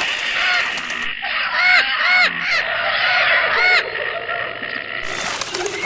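A bird's honking calls, several of them, each rising and then falling in pitch, between about one and four seconds in, over a steady noisy background.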